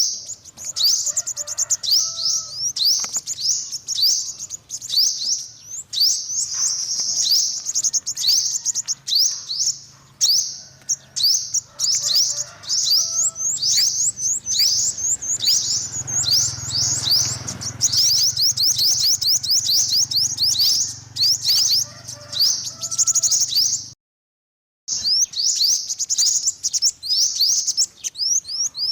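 Sunbird song: a fast, high-pitched, rapid twittering of short sweeping notes, repeated in runs. The sound cuts out for about a second near the end.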